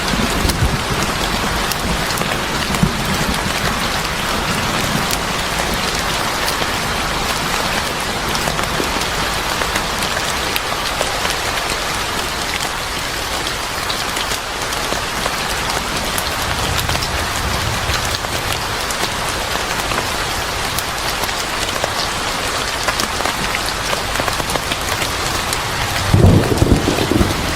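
Steady rain falling, with a low thunder rumble at the start and a louder rumble of thunder rolling in near the end.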